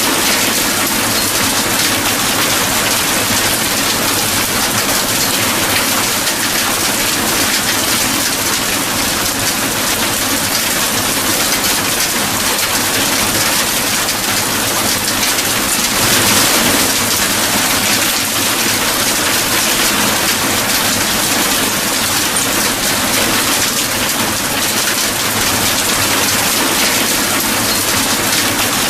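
Steady heavy rainfall, a dense even hiss of rain on surfaces, swelling slightly about halfway through.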